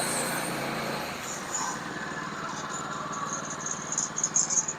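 Sawmill engine running steadily during a cut, its note dropping about a second in. Near the end come several sharp, high-pitched scraping bursts.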